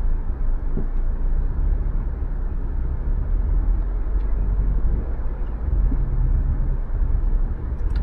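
Car driving: steady low rumble of road and engine noise.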